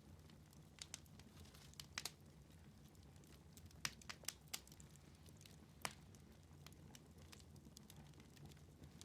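Wood fire in a fireplace crackling quietly, with scattered sharp pops, a small cluster of them around four seconds in, over a faint steady low background.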